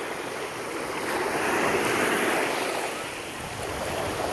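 Surf washing onto a sandy beach, swelling louder about a second and a half in and easing again near the end.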